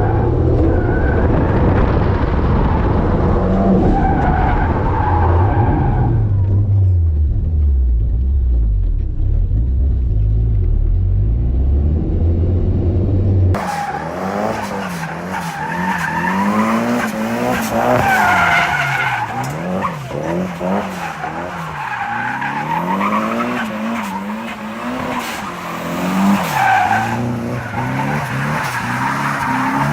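Drift car's engine revving hard and tyres squealing as it slides. For the first part the engine runs with a deep, heavy sound that eases down about six seconds in; about thirteen seconds in the sound changes abruptly to the engine pitch swinging up and down every second or so over a steady tyre hiss.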